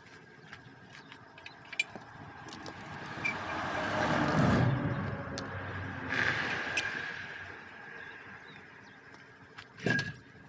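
A road vehicle passing by, its rumble swelling to a peak about halfway through and then fading away, with scattered light metallic clicks and a sharp knock near the end.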